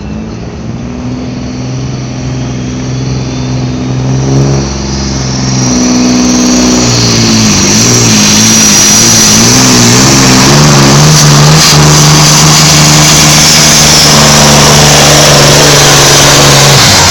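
Modified pulling tractor's engine run at full power down the track, very loud. It builds over the first few seconds, wavers in pitch for a few seconds in the middle, then holds a steady high note before easing off near the end.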